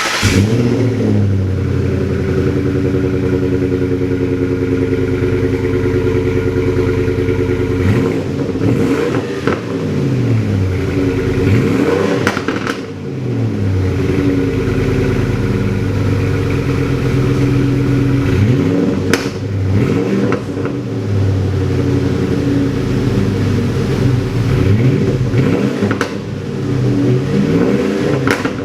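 2005 Ford F-150's exhaust through a Black Widow Venom 250 muffler, 3-inch center pipe and stainless Y-pipe into dual pipes, idling steadily and blipped up in several quick revs that rise and fall back to idle, around a third, half and near the end of the way through.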